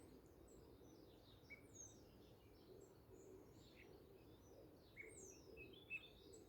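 Faint birdsong: many short chirps and whistles from several birds, some sliding in pitch, over a low steady background hum.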